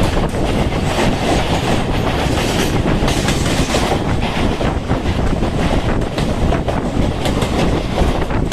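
Mumbai suburban electric local train running at speed: a steady, loud rumble of wheels on rail with a rapid, irregular run of clicks from the wheels passing over rail joints.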